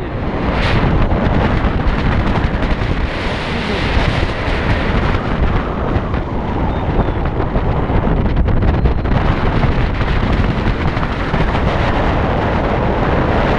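Heavy wind buffeting the microphone on a moving vehicle: a continuous low rumbling rush with no clear engine note.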